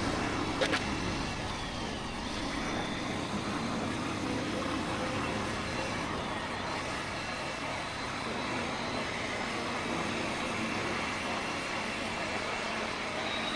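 Steady riding noise from a motorcycle moving through traffic, with engine, tyres and passing vehicles blending into an even rumble. There is a brief click about a second in.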